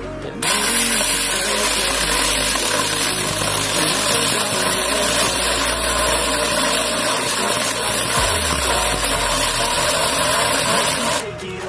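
Hiltec CC24V cordless 24-volt battery chainsaw running at full speed and cutting through a thick piece of wood. It starts about half a second in and stops suddenly near the end.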